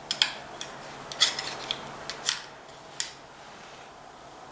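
Metal rocker oil line tube clinking and scraping against its fitting as it is worked by hand to seat it. Four sharp metallic clicks about a second apart, with light scraping between them.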